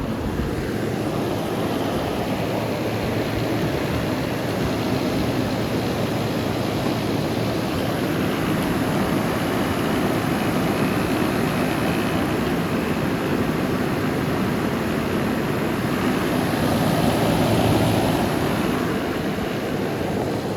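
Vintage Carry Cool 5,000 BTU window air conditioner running in cooling mode, compressor on, with the steady air noise of its indoor blower and outdoor condenser fan. The sound swells a little near the end.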